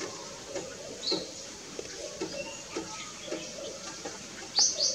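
Birds calling in forest: a short high note about a second in and two loud, sharp high notes in quick succession near the end, over soft low ticks about every half second.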